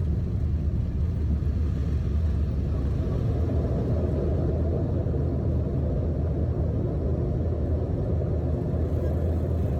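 Private jet cabin noise with the engines running: a steady low rumble.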